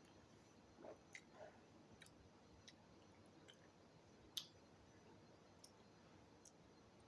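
Near silence with a few faint, scattered clicks, one sharper click about four and a half seconds in.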